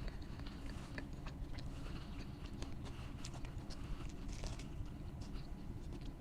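Close-miked chewing and biting of food: many short, irregular crunches and wet mouth clicks over a steady low hum.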